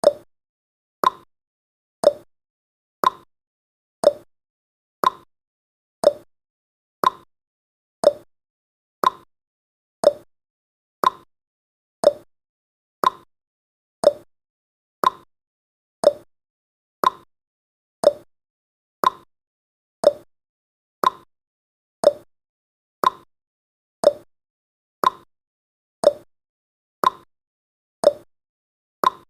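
Clock ticking sound effect of a countdown timer: one sharp tick every second, alternating a higher and a lower tick like a tick-tock.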